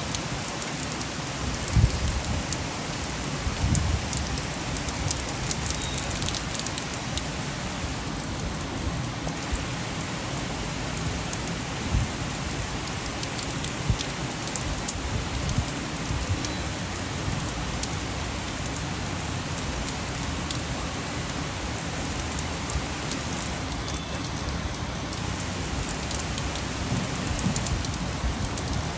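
Heavy rain pouring steadily onto trees, rooftops and a wet street, a dense even hiss with an uneven low rumble underneath.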